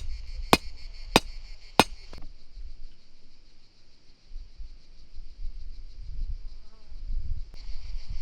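Hammer blows, evenly spaced about every half second or so, stopping about two seconds in, over a steady buzz of insects that drops out in the middle and returns near the end.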